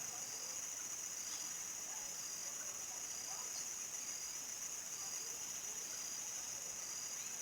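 Crickets trilling in a steady, unbroken evening chorus, with a second insect's short chirp repeating about once a second.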